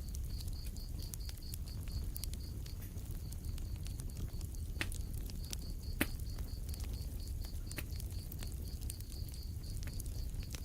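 Wood fire crackling in a fireplace: scattered sharp pops and crackles over a low rumble of the flames, with louder pops about five and six seconds in. A faint, regular high-pitched chirping runs underneath.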